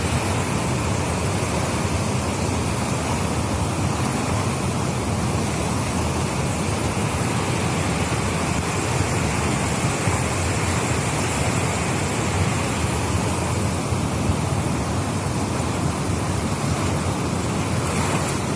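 Steady, unbroken rush of water: river floodwater pouring across the beach and meeting the surf.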